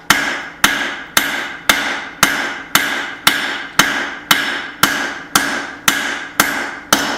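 Blacksmith's hand hammer striking hot steel on an anvil in a steady rhythm of about two blows a second, each blow with a short metallic ring, as the hatchet head is widened.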